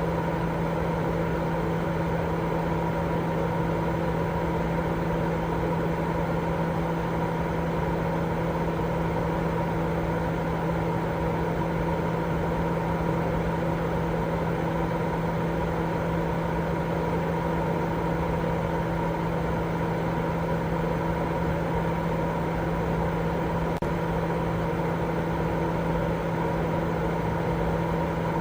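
Continuous baby-sleep white noise: a steady, unchanging rushing drone with a low hum running through it.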